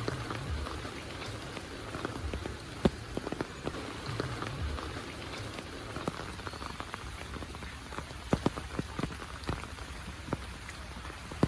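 Heavy rain falling steadily, with sharp close taps scattered irregularly through it.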